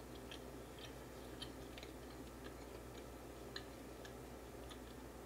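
A person chewing a mouthful of grilled meat with the mouth closed: faint, irregular soft clicks of the mouth over a low steady hum.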